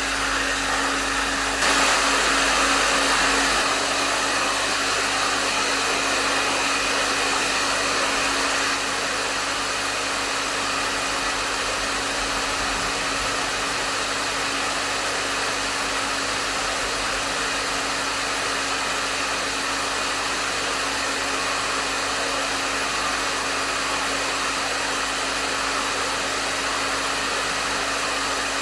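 Hair dryer blowing steadily: a continuous rush of airflow over a steady motor hum, briefly a little louder about two seconds in.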